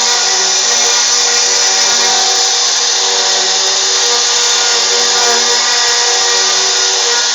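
CNC router spindle running steadily, a loud, even machining noise with no breaks.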